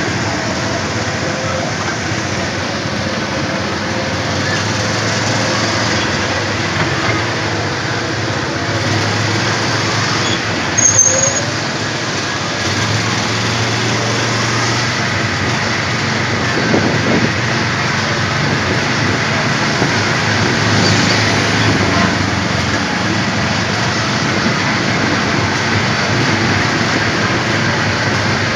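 Small petrol engine of an Autopia ride car running steadily while driving along the track, its note shifting a little with speed. A brief sharp high-pitched sound stands out about eleven seconds in.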